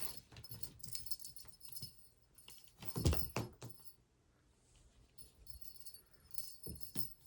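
Small metal bell jingling in irregular bursts of clicks, with a louder knock about three seconds in.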